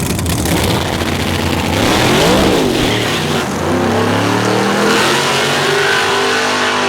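Drag racing car engine running rough and low, then a quick rev up and down about two seconds in, then rising steadily in pitch as it accelerates.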